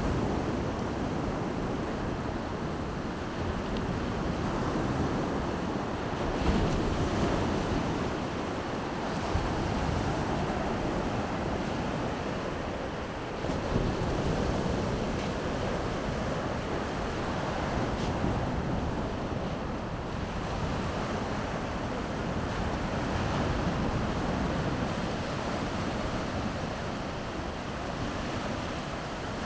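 Baltic Sea surf washing onto the shore, a steady rush that swells and eases every few seconds, with wind rumbling on the microphone.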